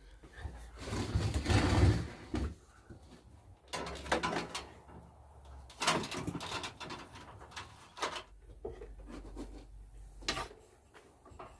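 Heavy workshop equipment being shifted about: a scraping rumble for about a second and a half near the start, then a scattering of separate knocks and bumps.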